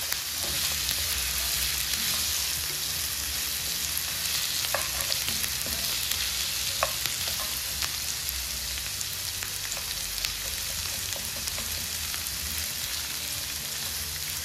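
Goat meat, onions and garlic sizzling steadily in ghee in a frying pan, with a few light clicks from the stirring utensil.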